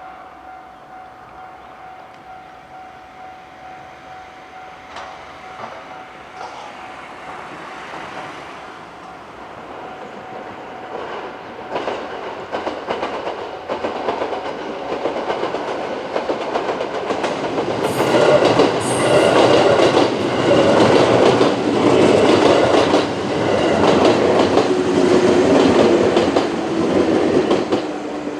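A JR West 221 series six-car electric train approaches and passes over a level crossing. Its rumble builds steadily, then turns into a rapid clatter of wheels over the rail joints that is loudest through the last third. A level crossing warning bell rings steadily throughout, with its steady tone plainest at first.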